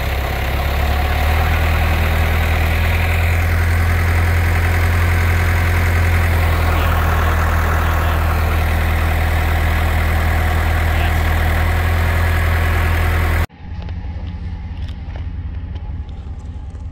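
An engine running steadily at idle, its hum stepping up slightly about a second in; it cuts off abruptly near the end, leaving quiet background with a few faint clicks.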